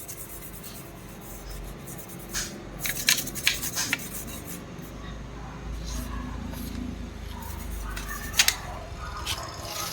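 Rubbing and scattered small clicks and taps from objects being handled, with a cluster of clicks about three to four seconds in and one sharp tap near the end.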